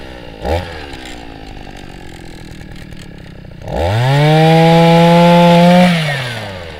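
Forte 52 cc two-stroke ice auger engine idling, with one short blip of throttle about half a second in. About midway it revs up to full speed, holds for about two seconds, then winds back down to idle.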